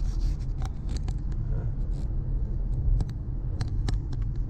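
A car driving: a steady low rumble of engine and tyres, with a scattering of light, sharp clicks and ticks.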